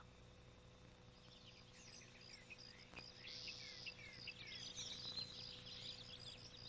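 Faint birdsong: many small birds chirping and twittering with quick, short, falling notes, fading in after about a second and a half.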